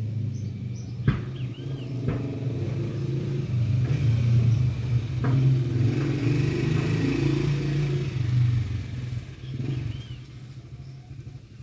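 A motor engine running with a low, steady drone that swells and then fades away near the end. A few clicks and short high chirps can be heard.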